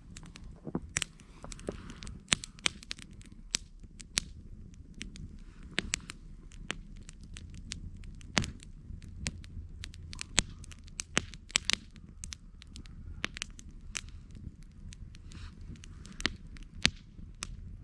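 Wood campfire crackling, with many sharp pops at irregular intervals over a low steady rumble.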